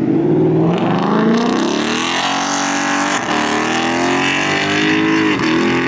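Car engine held at high revs, its pitch climbing slowly and dipping briefly twice, once about three seconds in and again near the end.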